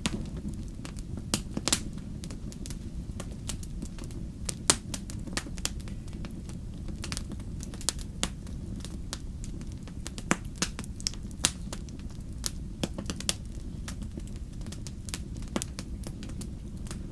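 Crackling wood fire: irregular sharp pops and snaps over a steady low rumble of the flames.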